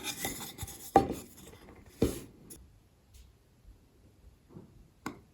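Small-part handling at a modelling bench: light rubbing, then three sharp clicks about 1, 2 and 5 seconds in, as tweezers and fingers work a tiny photo-etched metal davit brace to straighten it.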